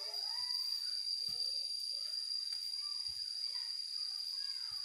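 A steady high-pitched insect trill, typical of a cricket, with faint short chirps and a few soft low thumps underneath.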